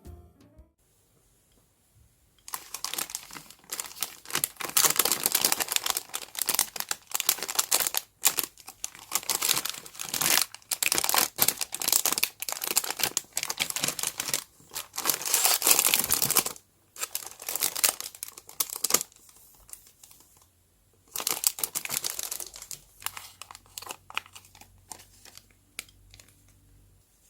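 Crinkly packaging being handled and unwrapped in long rustling bursts, with a few pauses and two shorter bursts near the end.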